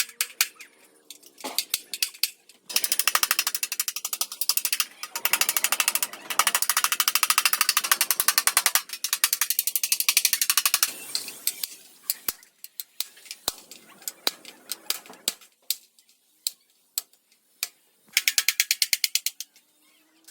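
Rapid mechanical ratcheting clicks in several runs of one to four seconds each, with scattered single clicks between them, as a ratcheting hand tool is worked.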